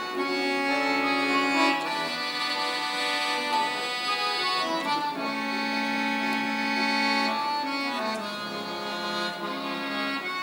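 Accordion playing an instrumental interlude between the verses of a song, with sustained chords that change every second or two.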